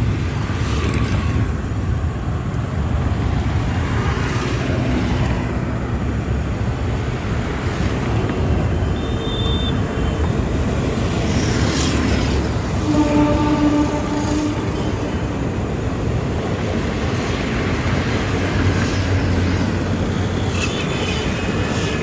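Passenger train pulling out of a station: a steady rumble of wheels and carriages on the track, with a brief steady tone about halfway through.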